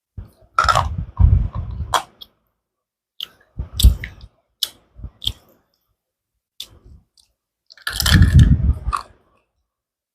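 Slate pencil being bitten and chewed close to the microphone: crisp snaps and gritty crunching in separate bursts with silent gaps between them, the longest bursts coming about a second in and again near the end.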